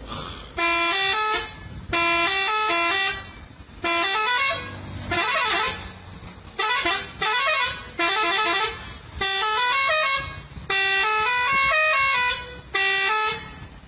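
A multi-tone musical vehicle horn of the Indonesian 'telolet' kind, sounded in a string of about ten short blasts, each playing a few stepping notes like a little tune.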